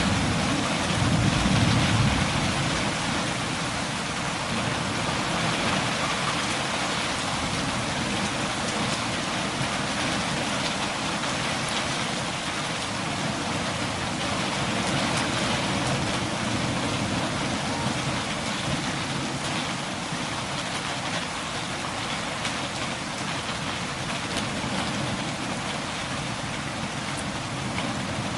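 Steady rain falling, an even hiss, with a brief low rumble swelling about two seconds in.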